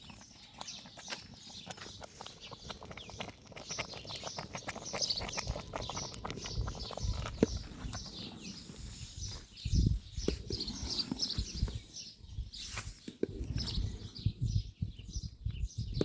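Small birds chirping in quick, repeated calls, mixed with scattered knocks and clatter; a heavy thud about ten seconds in.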